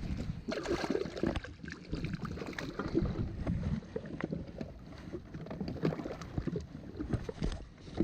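Water sloshing against a jet ski, with irregular knocks and clicks from handling on board.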